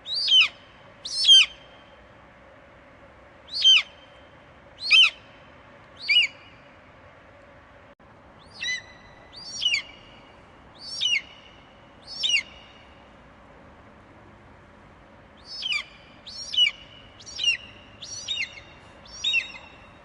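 Eagle screeching: about fourteen short, piercing calls, each sliding sharply downward in pitch, given in three runs of four or five with brief pauses between, over a steady background hiss.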